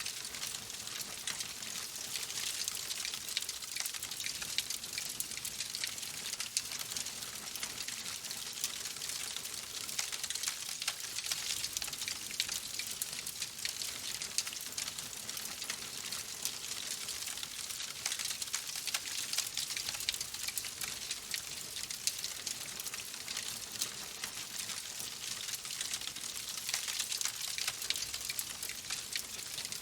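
Wood fire in a fireplace crackling steadily: a dense hiss with many small sharp pops and snaps throughout.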